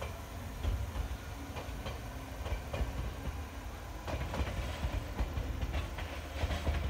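Meitetsu 6000 series electric train running past, with a low rumble and a run of wheel clicks and clacks over the rail joints that grows busier in the second half.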